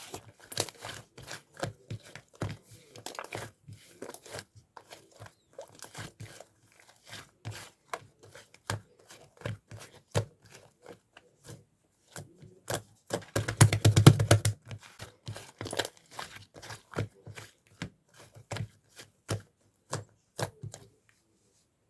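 Lavender clay slime being poked, pressed and stretched by hand, giving a quick run of sticky clicks, pops and crackles. A denser, louder patch of popping comes about two-thirds of the way through, and the sounds stop shortly before the end.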